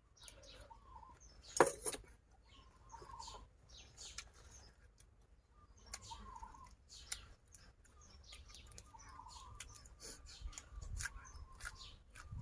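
Close-up eating sounds: chewing and crunching with many small sharp clicks, one louder crunch about two seconds in. A hen clucks softly in the background every couple of seconds.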